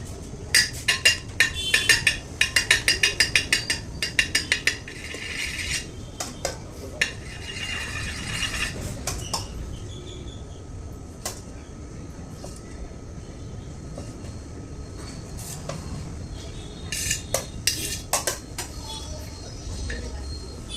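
Metal kitchen utensils clinking and tapping in a quick run of ringing strikes, about three or four a second for several seconds, then scattered clicks and a short second run of taps near the end.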